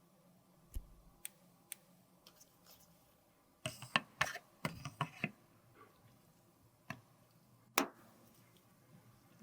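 Sharp clicks and taps of small hard objects being handled, scattered singly with a quick cluster of them about four to five seconds in.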